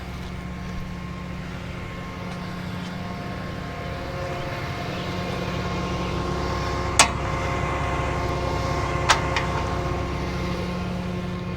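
Rollback tow truck's engine running steadily, a little louder through the middle. Two sharp metallic clicks, about seven seconds in and again two seconds later.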